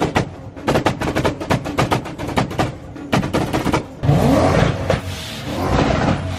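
Rapid, sharp drum hits of background music, then about four seconds in a modified car's engine comes in loud, revving and accelerating with rising pitch.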